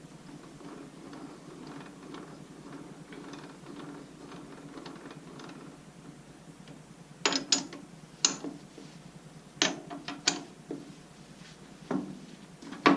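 Woodworking lathe's tailstock and drilling setup being repositioned: several seconds of faint steady whirring with light ticking, then a series of sharp metal clanks and clicks in the second half.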